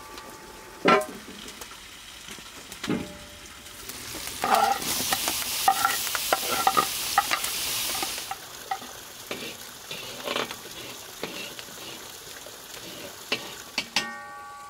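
Food frying and sizzling in hot fat in a pan while a metal utensil stirs it, knocking and clinking against the pan. The sizzle swells louder from about four to eight seconds in.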